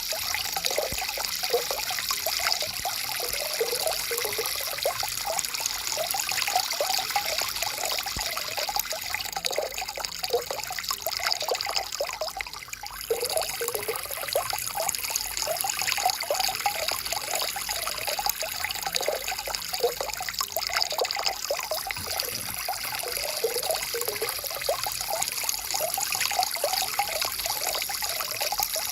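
Stream water flowing and trickling steadily, with many small bubbling splashes. It goes briefly softer about halfway through.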